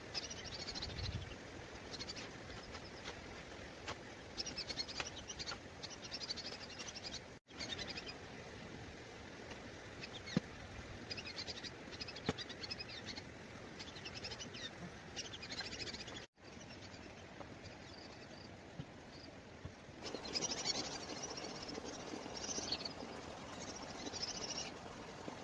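Small birds chirping in short, high twittering bursts over steady outdoor background noise, with a few faint light taps; the sound cuts out briefly twice.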